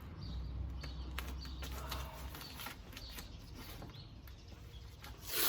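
Quiet handling sounds of painter's tape being applied around a car headlight: a few light clicks and crinkles. A low hum runs for the first couple of seconds, and faint high chirps sound in the background.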